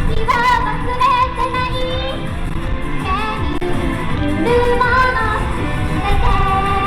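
Live pop song with a woman singing over the music, with heavy wind rumble buffeting the microphone.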